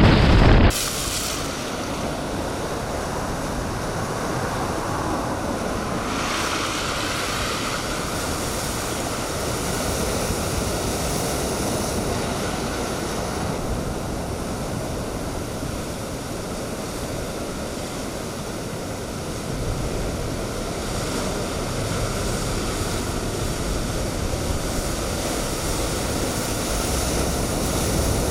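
Storm waves surging and breaking in typhoon-force wind, a steady rush of surf and wind noise. It is louder for the first second, then settles to an even level.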